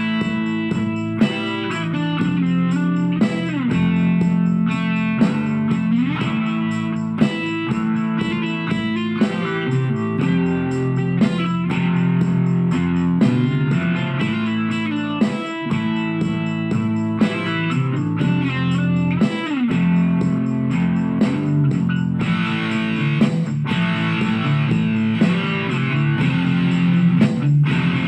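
Guitar music, most likely electric guitar, playing a melody with sliding, bent notes over a low sustained part, with a short sharp hit about every two seconds.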